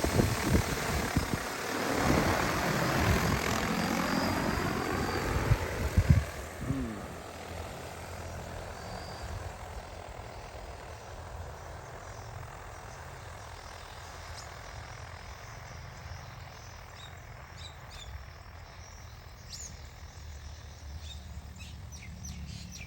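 DJI T20P agricultural spray drone's propellers whirring loudly, their pitch falling as it passes and moves away, fading out about seven seconds in. After that only a faint steady background with a few bird chirps near the end.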